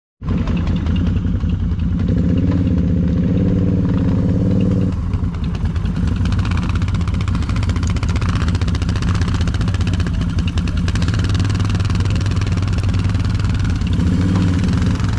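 ATV engines running steadily. A second engine's louder pitched note joins about two seconds in, drops away just before five seconds, and comes back near the end.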